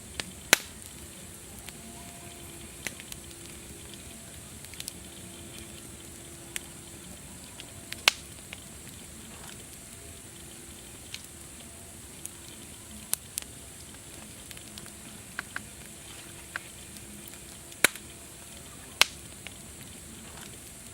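Wood fire crackling: irregular sharp pops and snaps over a steady high hiss, with the loudest pops about half a second in, around eight seconds, and twice near the end.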